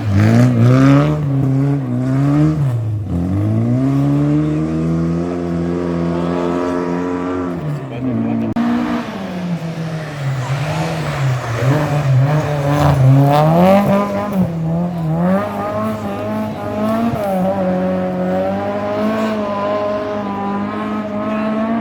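Rally car engine revving hard through a stage section, its pitch climbing and dropping again and again with gear changes and throttle lifts, then holding high and steady over the last few seconds.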